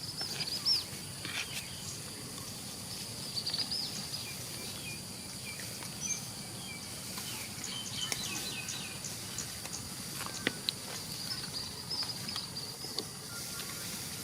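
Rural outdoor ambience: insects drone steadily on a high pitch, with groups of short, high chirps and a few sharp clicks.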